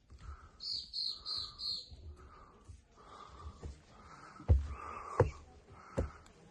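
A bird chirping a quick run of about five high notes, followed a few seconds later by three sharp knocks, the first two the loudest.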